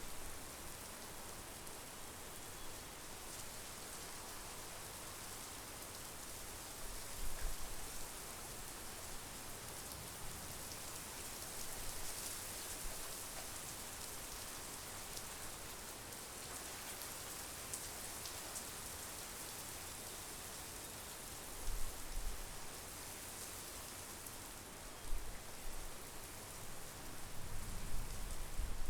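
Steady monsoon rain falling, an even hiss throughout, with a few brief low rumbles at intervals, the strongest near the end.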